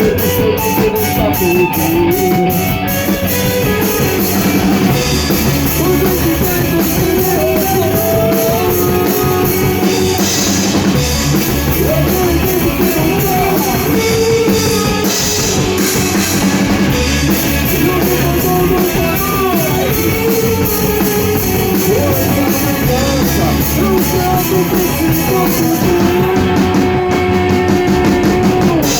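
Rock band playing live at rehearsal: drum kit and electric guitars, loud and continuous, with a pitched melodic line moving over them.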